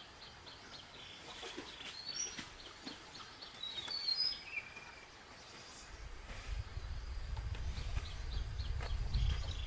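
Small birds chirping with short high calls over a rapid series of high ticks, with a few clicks. About six seconds in, a low rumble sets in and grows louder.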